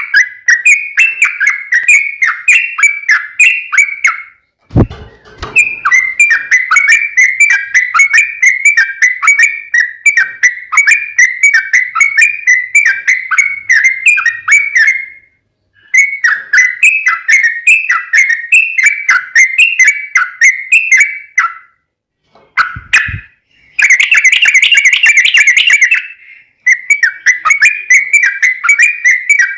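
Yellow-vented bulbul (trucukan) singing its long 'ropel' song: fast runs of short whistled notes in long phrases broken by brief pauses. A short low thump comes about 5 s in and again about 23 s in.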